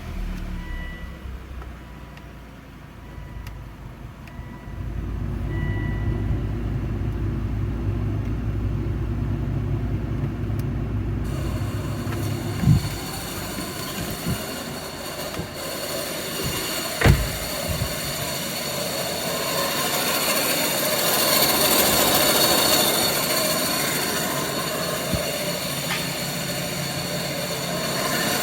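A car's engine idling, then about eleven seconds in the ventilation blower comes on with a steady rushing of air, with a couple of short knocks soon after. The blower is making an abnormal noise.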